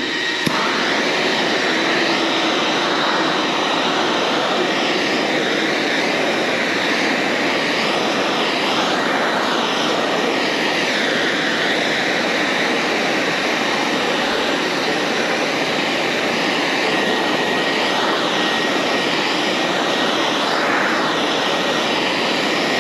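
Heat gun running steadily, a loud blowing rush with a faint high whine, as it warms a freshly fitted race car part so the part will settle into shape.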